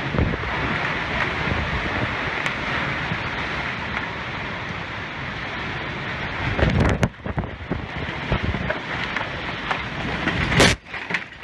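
Tornado wind rushing over the microphone as a steady, dense noise. In the last few seconds it turns into uneven gusts and knocks, with a single sharp, loud burst near the end.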